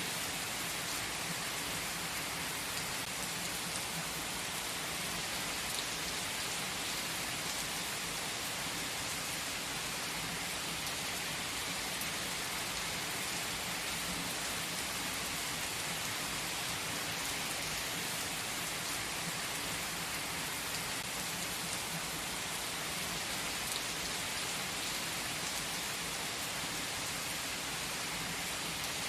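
Steady rain falling: an even hiss, brightest in the high range, with fine patter of drops and no change in level.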